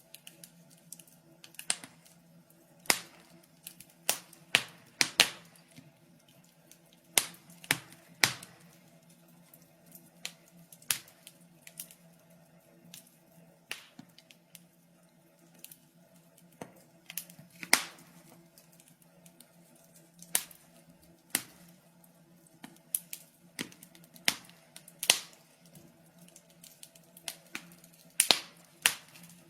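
Wood fire crackling in a fireplace: irregular sharp pops and snaps, some loud, at uneven intervals over a faint steady hum.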